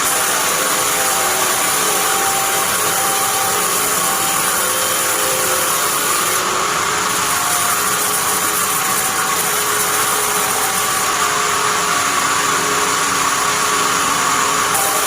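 Band sawmill running with a steady, continuous mechanical noise.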